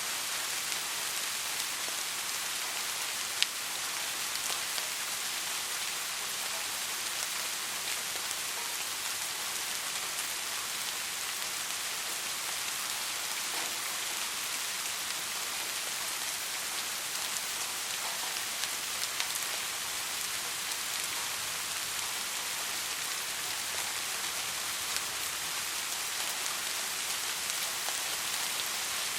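Soft rain falling steadily, an even hiss with scattered ticks of single drops; one sharper drop tick stands out about three and a half seconds in.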